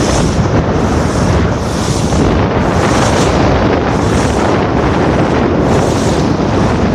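Wind blasting over the microphone on a moving boat, mixed with rushing water, in a loud steady roar whose hiss swells about once a second.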